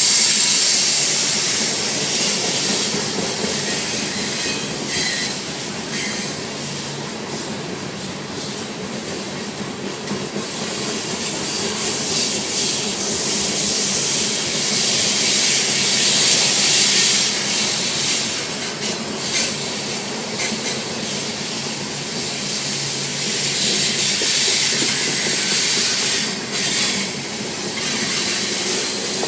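Coal train cars rolling past: steel wheels rumbling and hissing on the rails, with occasional clicks and brief wheel squeals.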